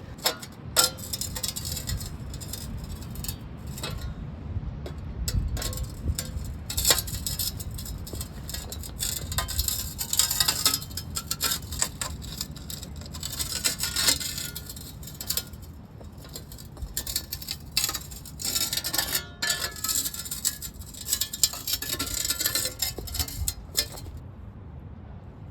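Patio pavers scraping and clinking against one another as they are shifted and pressed into place by hand, in an irregular run of knocks and grinding scrapes that stops shortly before the end.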